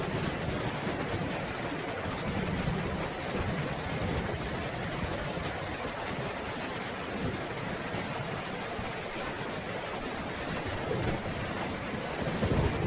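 Steady, dense rainfall hissing evenly, with a low rumble of distant thunder swelling near the end.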